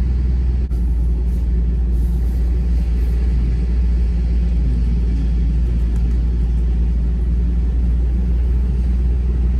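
Ford Bronco driving through loose beach sand: a steady low rumble of engine and tyres under load.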